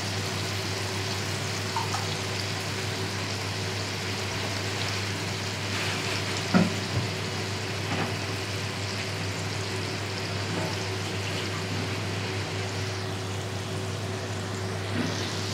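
Diced chicken frying in oil in a wok, a steady sizzle, with a steady low hum beneath it and one short knock about six and a half seconds in.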